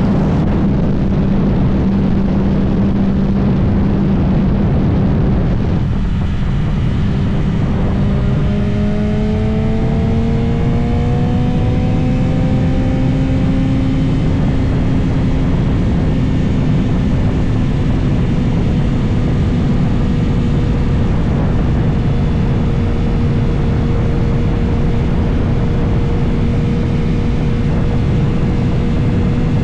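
BMW S1000RR's inline-four engine running through its straight-piped exhaust under way, over a steady rush of wind noise. It holds a steady note, then about six seconds in the pitch climbs for several seconds as the bike accelerates, and settles into a steady cruise note for the rest.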